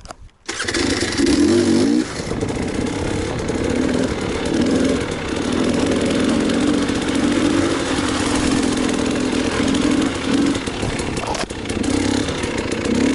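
Enduro motorcycle engine running under load, starting abruptly about half a second in; the revs keep rising and falling.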